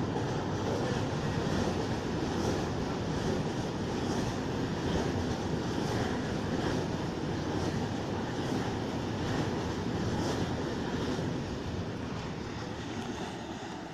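Freight train rolling past with a steady rumble and faint, regular wheel clicks, easing off a little near the end.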